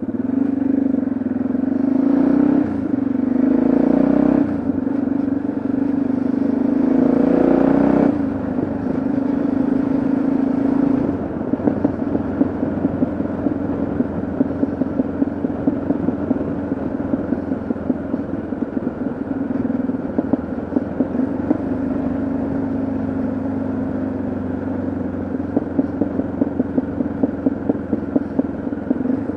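Single-cylinder engine of a Yamaha XT660Z Ténéré motorcycle running on the road. It is louder and pulling harder for the first eight seconds or so, then eases off to a lower, uneven pulsing.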